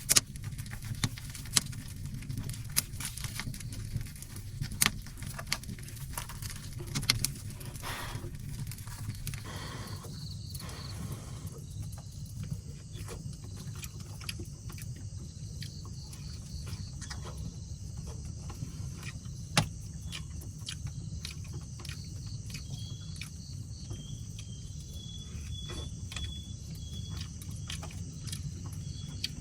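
Scattered sharp clicks and crackles over a steady low hum, thinning out after the first few seconds, with a faint high insect trill in the second half.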